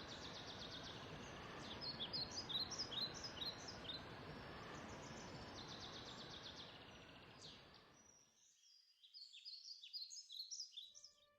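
Faint outdoor ambience of small birds chirping and trilling over a steady hiss of background noise; the hiss drops away about eight seconds in, leaving only the bird chirps.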